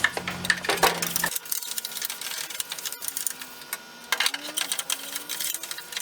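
Metal tackle-box parts being scrubbed and scraped in a parts washer, irregular scraping strokes and clicks, while a steady hum stops about a second in.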